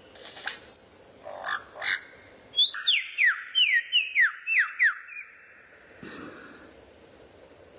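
A songbird calling: a few short calls, then a quick run of about eight sharp notes that each slide down in pitch, roughly three a second, ending about five seconds in.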